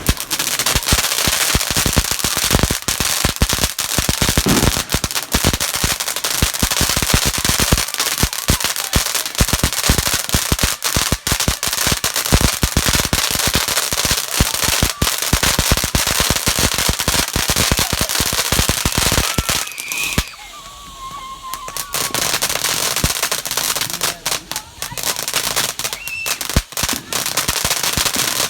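A long string of firecrackers going off, a rapid, continuous stream of sharp bangs. The popping drops away for a couple of seconds about twenty seconds in, then resumes.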